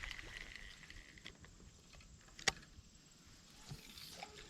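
Quiet outdoor background with one sharp click about halfway through and a softer knock shortly after.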